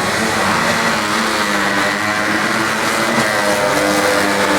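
Off-road racing vehicle engines running steadily, their pitches drifting a little up and down.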